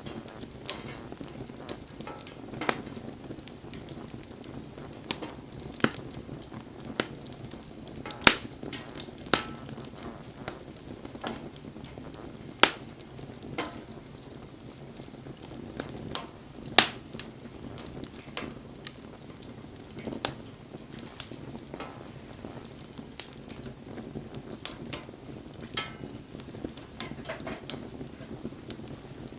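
Wood bonfire burning: a steady low rush of flame with irregular crackles and sharp pops, a few louder snaps scattered through, the loudest just past the middle.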